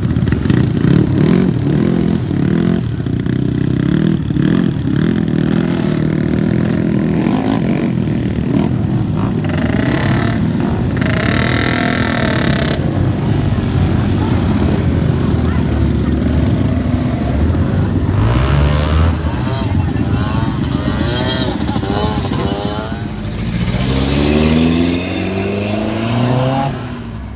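Car engines running and revving as cars drive off one after another. Engine notes rise in pitch several times, briefly just before halfway and repeatedly through the second half.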